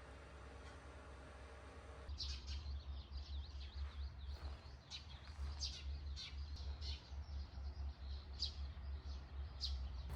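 Small birds chirping in quick, irregular short calls over a low rumble, after about two seconds of steady hum that cuts off suddenly.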